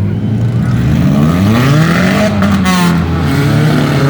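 Demolition derby cars' engines revving, several at once, their pitch rising and falling as they accelerate and back off.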